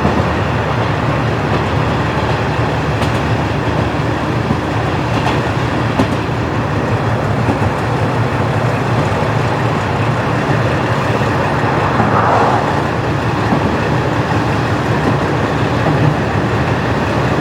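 KiHa 40-series diesel railcar running on the line, its original DMF15HSA diesel engine giving a steady drone with a few rail-joint clicks from the wheels.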